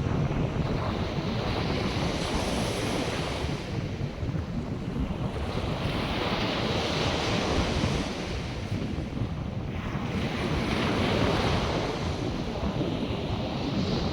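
North Sea surf: waves breaking and washing in, the hiss swelling and fading every few seconds. Wind buffets the microphone throughout as a steady low rumble.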